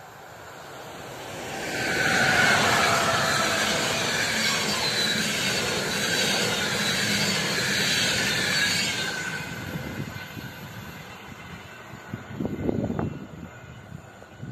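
A passenger train passes a level crossing: the rush of wheels on rail builds about two seconds in, stays loud for about seven seconds, then fades away. Near the end there is a brief clatter as the crossing barrier arms start to rise.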